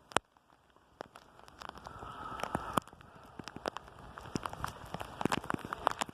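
Heavy rain falling, with many separate drops striking close by as sharp irregular ticks over a steady hiss. A rushing noise swells from about a second in and cuts off abruptly near three seconds.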